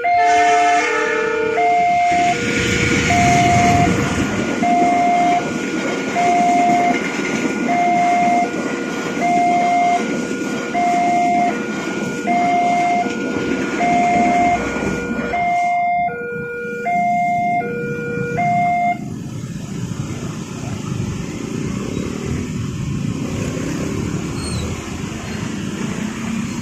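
Railway level-crossing warning alarm sounding an alternating high-low two-tone signal, about one high-low cycle every second and a half, that stops about two-thirds of the way through. Under it, a train passes the crossing with a rumble of wheels on rail from about two seconds in, ending abruptly at about fifteen seconds; a steady rumble of noise continues after the alarm stops.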